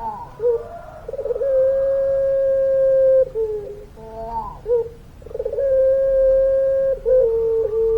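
Puter pelung, a long-voiced strain of domestic barbary dove, cooing. It gives two long, drawn-out held coos, each opened by short wavering notes.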